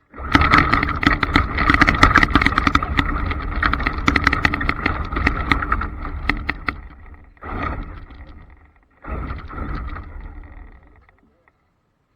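Traxxas Slash RC trucks driving at speed: the electric motors whine over a dense crackle from the tyres on loose ground. The sound cuts in suddenly and fades about seven seconds in, then comes back in two shorter passes.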